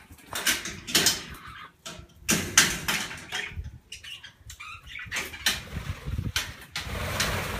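Irregular rattles, knocks and rustling from someone opening and going into a wire-mesh aviary.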